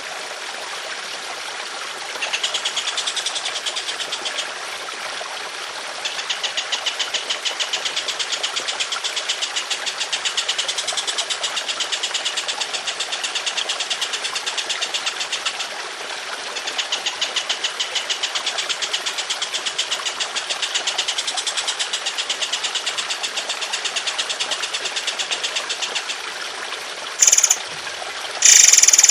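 A songbird singing long runs of a rapid, rough, repeated note ('tembakan kasar'), each run lasting several seconds, over the steady sound of trickling water. Near the end come a few short, loud, high-pitched calls.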